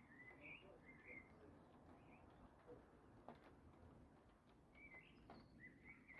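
Faint bird chirps and short twittering calls, with a few scattered taps of raindrops.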